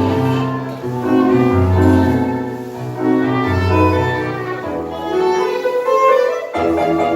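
Live tango music from a small ensemble: a violin carries sustained melody notes over a low string bass line, with piano.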